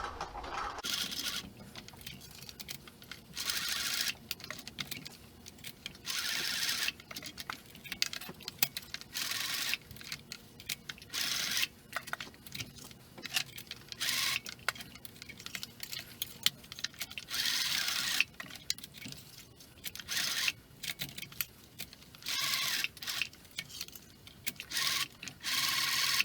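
Handling of the homemade lanyard's metal ring and hook: clinking and rustling in short, irregular bursts about every second or two.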